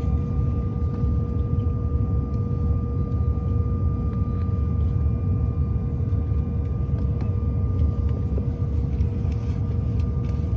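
Steady low rumble of an airliner heard from inside the cabin, with a constant engine whine held on two tones.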